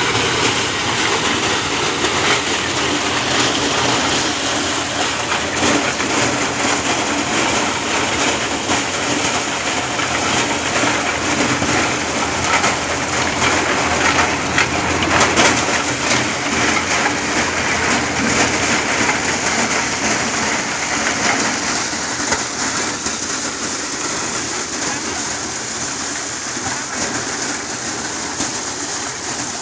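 Corn thresher machine running steadily, a dense continuous noise with many fine rattling clicks. It eases a little over the last several seconds.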